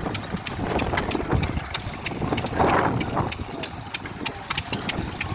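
Vintage stationary engines running, with a quick, steady string of sharp ticks, about four a second, over a low rumble.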